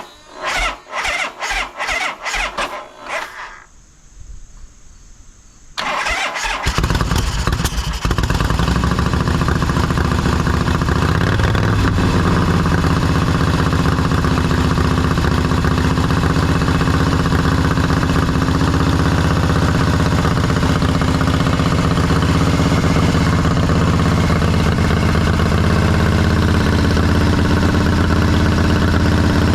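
A freshly rebuilt 80-inch Harley-Davidson Shovelhead V-twin with Ultima headers and exhaust being cranked for its first start. It turns over in a run of short pulses for about three seconds, pauses, cranks again and catches about six seconds in. It then settles into a steady, loud run.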